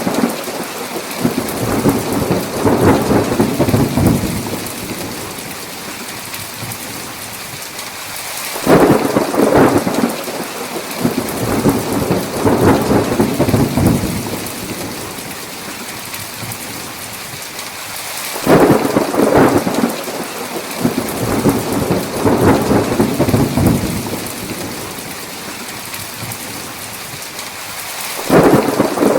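Thunderstorm: steady heavy rain hiss with thunder rumbling at regular intervals. Three rumbles fall about ten seconds apart, each starting sharply and rolling on for several seconds, and each has the same shape, like a repeating loop.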